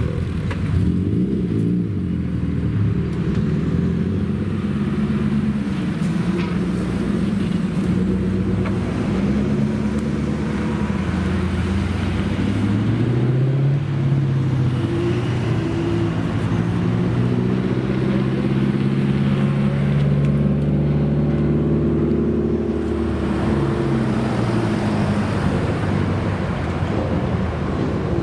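Exhausts of modified Japanese cars running and pulling away, with several engines overlapping. The engine pitch rises as cars accelerate, twice in the middle stretch.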